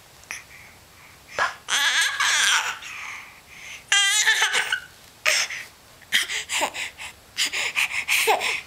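A baby girl's high-pitched squeals and laughter in short bursts, with a quavering, wavering squeal about four seconds in and a quick run of laughing bursts near the end.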